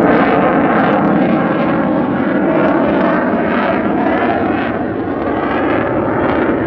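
F-22 Raptor fighter jet flying past, its jet engine noise loud and steady throughout.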